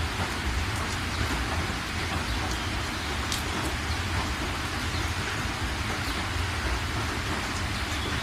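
Steady rain falling, a constant hiss with scattered drop ticks over a deep low rumble.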